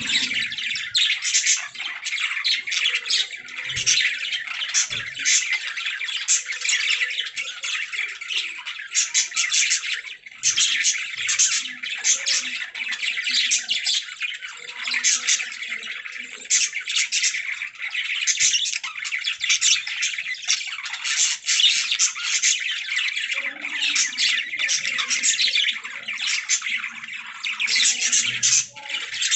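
Budgerigars chattering and warbling, with rapid overlapping chirps and squawks that barely pause.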